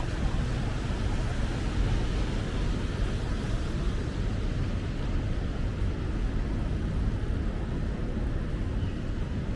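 Steady city traffic noise: a continuous low rumble with an even hiss over it and no distinct events.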